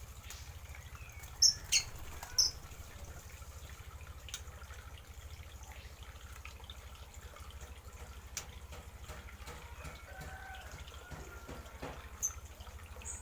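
Aviary birds chirping: three sharp, high chirps close together in the first few seconds, then sparse faint calls and a last chirp near the end, over a steady low hum.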